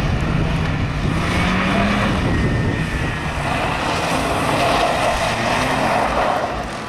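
BMW E36 3 Series saloon's engine revving hard as the car is driven through a tyre slalom, its note rising over the first two seconds, with a rushing noise of tyres scrubbing as the car slides through the turns.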